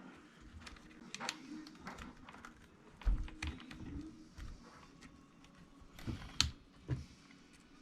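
Small plastic and metal parts of an RC truck's suspension being handled and fitted by hand: scattered light clicks and taps, with a few sharper knocks about three seconds in and again around six and seven seconds in.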